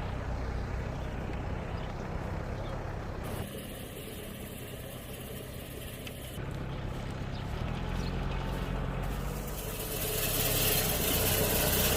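Tractor engine running steadily, growing louder near the end.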